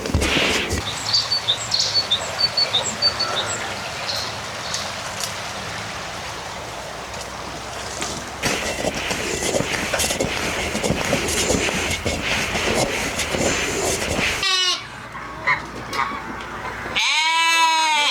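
A steady crackling hiss runs through most of the clip, with a few faint high chirps early on. A bleating farm animal calls briefly about three-quarters of the way in, then gives a louder, longer bleat with a wavering pitch near the end.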